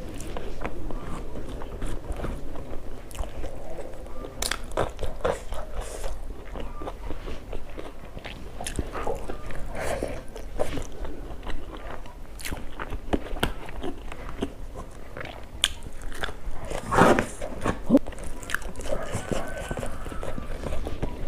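Close-miked eating: a person biting and chewing food, with irregular crunches and crackles, the loudest a little after the middle.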